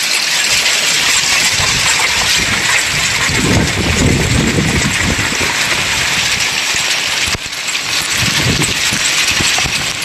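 Hail pelting down in a loud, dense clatter of small hard impacts. A low rumble swells about three seconds in and again near eight seconds.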